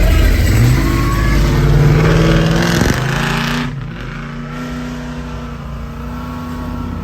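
Car engine revved up, its pitch climbing for about two seconds, then let off sharply about three seconds in and settling back to a steady idle.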